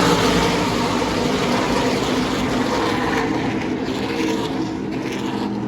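NASCAR race trucks' V8 engines running at racing speed as the field goes by, a loud, dense engine sound that eases slightly toward the end.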